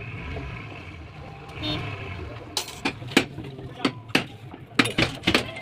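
Low steady rumble of a diesel truck engine running. From about halfway, sharp irregular knocks and clicks come over it, about eight in all.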